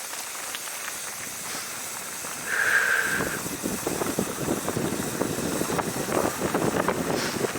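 Mountain bike rolling over a rough dirt trail: tyres crunching and the bike rattling, becoming louder and choppier about three seconds in, just after a brief high squeal.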